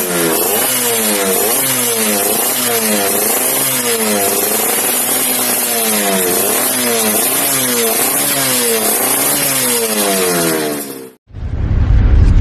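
Yamaha F1ZR two-stroke single with an RTX racing exhaust being revved over and over, its pitch rising and falling about once a second, with a raspy hiss over the top. It cuts off sharply near the end and a deep boom follows.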